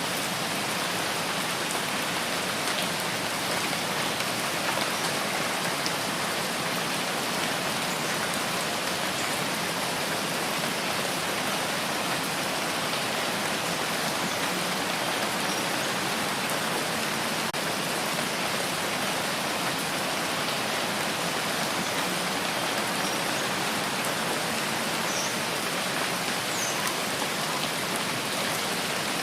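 Steady rain falling and pattering on surfaces, an even hiss with occasional faint drop ticks.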